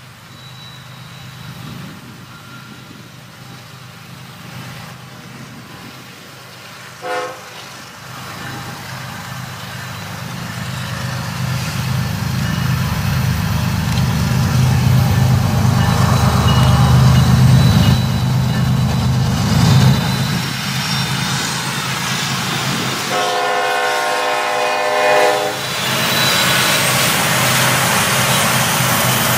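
Norfolk Southern diesel freight locomotive approaching with its engine rumble building. It gives a short horn note about seven seconds in and a longer horn chord of several notes near the end, then passes close with loud wheel and engine noise.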